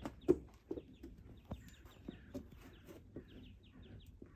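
Birds calling outdoors, with short high chirps repeated near the end, over a few sharp knocks. The loudest knock comes about a third of a second in.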